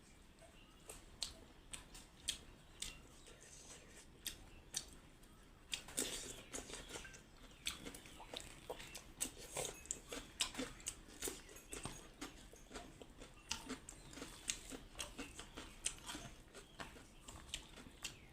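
Close-miked chewing and mouth sounds of someone eating: irregular wet clicks and crunches, sparse at first and coming faster from about six seconds in.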